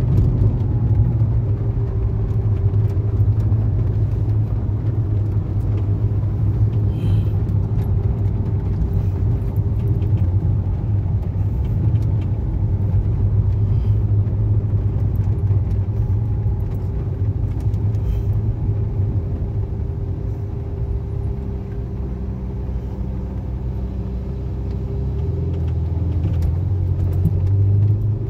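Ferrari 488 Spider's twin-turbo V8 heard from inside the cabin while driving, a steady low drone with road noise. The note drops a little about two-thirds of the way through and picks up again near the end.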